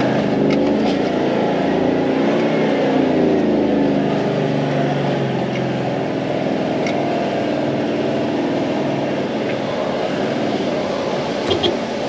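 Four-wheel drive's engine working under load in low-range second gear, towing a caravan through soft beach sand, its revs rising and falling.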